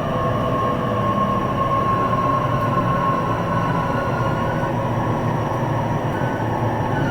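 Inside a JR East E233 series electric multiple unit running on the line: steady wheel-on-rail rumble with the whine of the traction motors, a few steady tones around one kilohertz holding level.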